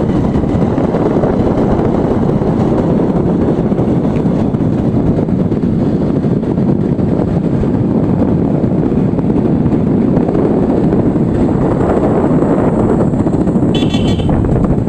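Steady, loud rumble of a moving vehicle, with wind noise on the microphone. A brief high-pitched tone sounds near the end.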